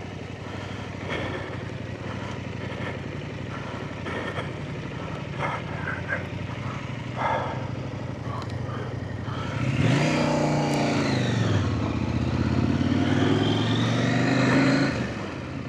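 Off-road trail motorcycle engine running slowly, with scattered knocks and rattles, then revving up and easing off twice in the second half as the bike accelerates.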